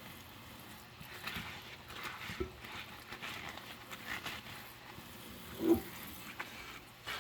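Rubber-gloved hands scrubbing wet dishes in short rubbing strokes, with a few light knocks of dishware. One short, loud squeak of rubber glove on a wet dish comes about five and a half seconds in.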